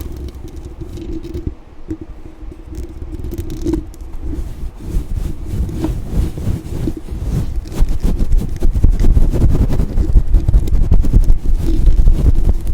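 Aggressive, rapid scratching and brushing directly on a microphone, heavy and rumbly in the bass, growing louder about eight seconds in.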